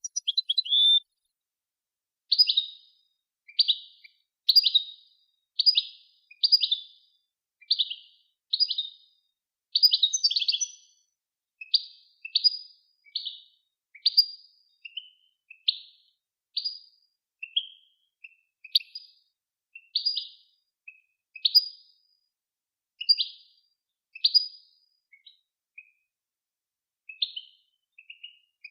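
A songbird repeating short, sharp chirping notes, about one or two a second with brief silences between them.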